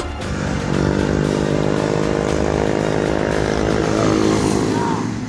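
A vehicle engine running at a steady speed, a loud, even drone that holds its pitch and fades away near the end.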